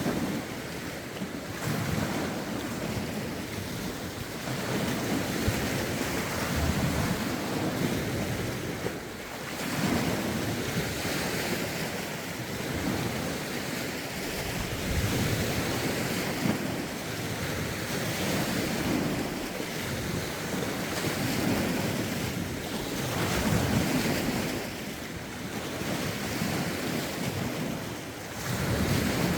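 Lake waves washing in, swelling and easing every few seconds, with wind buffeting the microphone.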